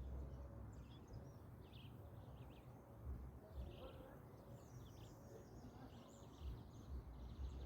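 Small birds chirping over and over in the background, with an irregular low rumble underneath.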